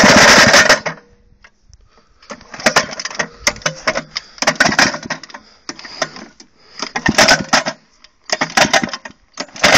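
AS Motor two-stroke lawnmower engine running, then cutting off abruptly just under a second in. From about two seconds on come repeated bursts of clicking and clattering in short groups.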